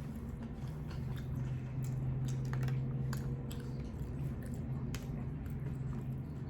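A person chewing sushi close to the microphone, with many short, soft wet mouth clicks over a steady low hum.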